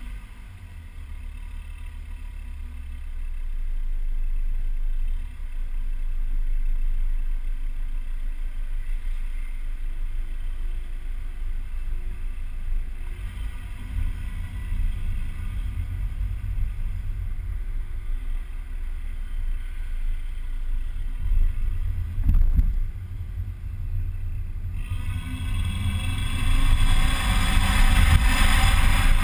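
Low exhaust rumble of a Volvo C30 T5's stock exhaust, from its turbocharged 2.5-litre five-cylinder engine, running steadily. A single knock comes about two-thirds of the way in. Near the end a much louder rushing noise joins in.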